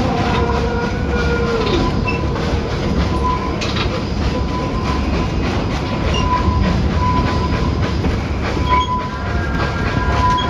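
Narrow-gauge excursion train heard from aboard a passenger car as it rolls along: a steady rumble of wheels on rail, with a thin high tone that swells now and then, like wheel squeal.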